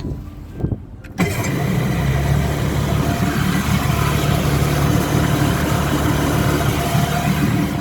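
Fast rescue boat engine started on the key: it catches at once about a second in and then runs steadily.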